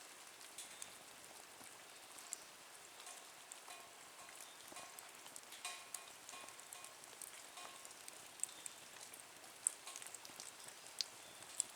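Small wood fire in a Nature Stove twig stove, burning with a faint hiss and scattered sharp crackles and pops, a few louder pops near the end.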